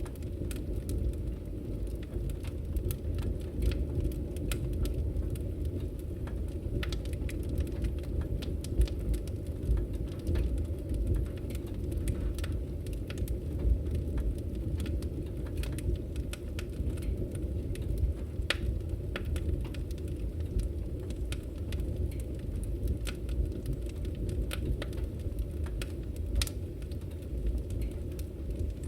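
Firewood burning in a Victory Camp Taiga wood stove: a low steady rumble of the fire with irregular sharp crackles and pops from the logs.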